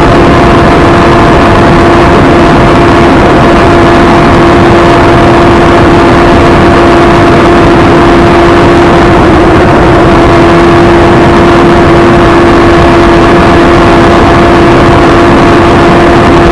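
Superbike engine held at steady high revs, a constant high-pitched drone with no rise or fall, very loud and distorted.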